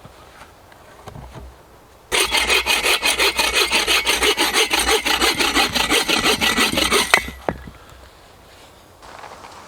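Hand saw cutting through wood in quick, rapid back-and-forth strokes, starting about two seconds in and stopping about five seconds later.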